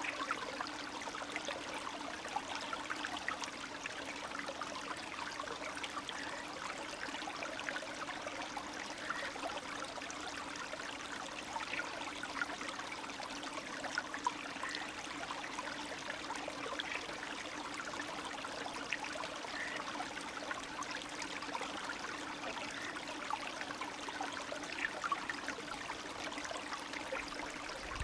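Spring stream running steadily, water trickling and babbling with many small splashes.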